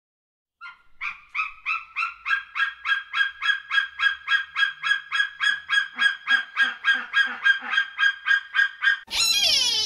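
A bird calling: one call note repeated rapidly and evenly, about four a second, starting about a second in and stopping about nine seconds in. A different sound with falling whistling sweeps then cuts in near the end.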